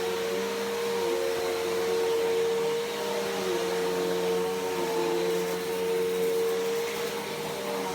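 Bissell PowerForce Helix Turbo upright vacuum cleaner running steadily, with a constant motor whine over the rush of air. The pitch sags slightly a few times.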